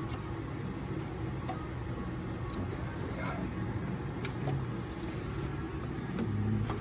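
Light clicks and clinks of metal parts and tools being handled during water pump installation, over a steady low hum.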